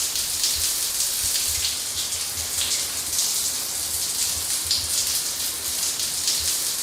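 Shower spray running steadily: a dense, even hiss of falling water with soft, irregular low thuds of water striking the floor underneath.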